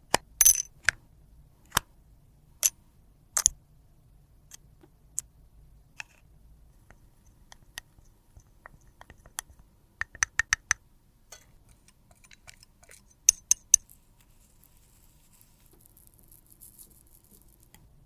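Scattered sharp clicks and taps of small hard objects being handled, with a quick run of about six a little after ten seconds and three more a few seconds later. A faint high hiss comes in near the end.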